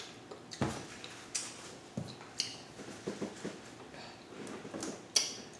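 A person chewing food, with scattered small clicks and wet smacks of the mouth.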